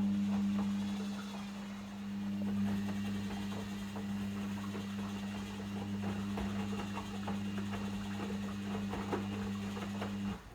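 Logik L712WM23 washing machine giving off a steady electrical hum with faint irregular crackles over it, typical of its drain pump or water valve running. The hum cuts off abruptly near the end.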